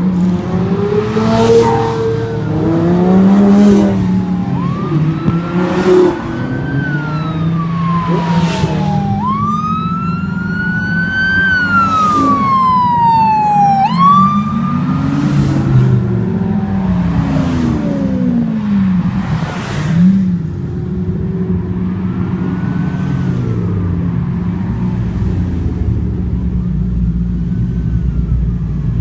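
Street traffic with car engines revving up and down and several sharp pops in the first half. A siren wails over it, rising and falling, loudest in the middle and fainter later.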